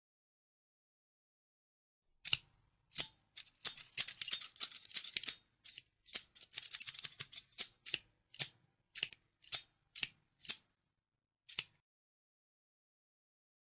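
Scissors snipping, crisp sharp snips. After about two seconds without sound come a couple of single snips, then two quick runs of rapid snipping, then single snips about half a second apart.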